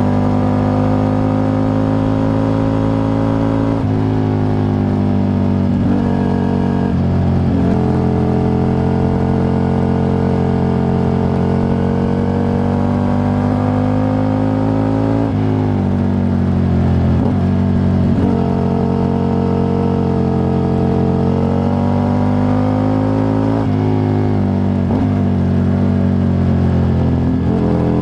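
Aprilia RSV 1000's V-twin engine and exhaust on the move, heard from a microphone under the seat. The engine note climbs slowly under throttle, then drops sharply several times as gears change or the throttle closes.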